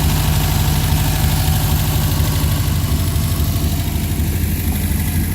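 1963 Volvo 544's four-cylinder engine idling steadily on its first start-up, running healthily with a light tick that is not too bad.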